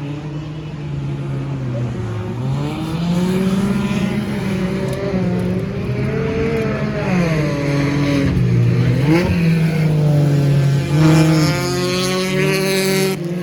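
Several stock car engines running at race speed on a track, overlapping, their pitch rising and falling as the cars accelerate and lift. They are loudest as cars pass close near the end.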